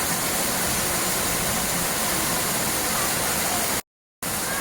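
Steady rushing of falling water, an even roar with no pitch. Near the end it cuts out completely for about a third of a second and then resumes.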